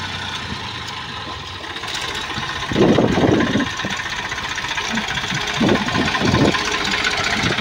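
Tractor diesel engine running steadily, with louder swells about three seconds in and again near six seconds.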